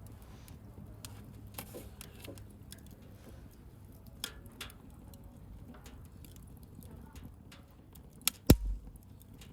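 Bonfire of burning wood crackling, with scattered small pops and then two sharp cracks close together near the end, the second the loudest.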